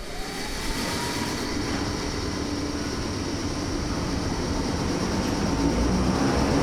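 Chichibu Railway Deki 500 electric locomotive running light as it pulls away, its motor whine rising in pitch over the first second. The running noise grows steadily louder as it draws nearer.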